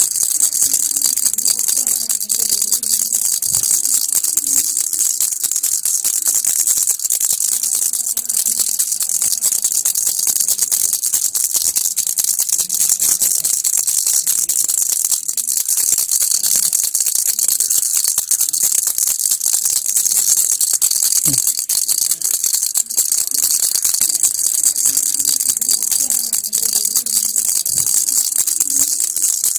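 Baby rattle shaken without a break: a dense, steady rattle of rapid fine strokes.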